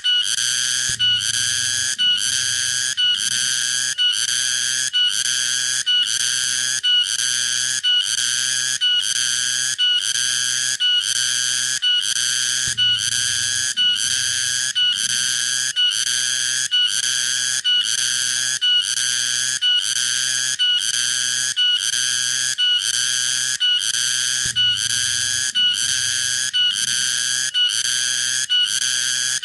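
Cicada calling: a loud, harsh, high buzz broken into regular pulses, about one and a half a second, with short gaps between them.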